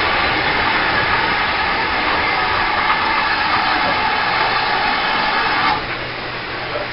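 Railway passenger coaches rolling past at close range: a steady rushing noise of wheels and running gear on the rails, which drops in level about six seconds in.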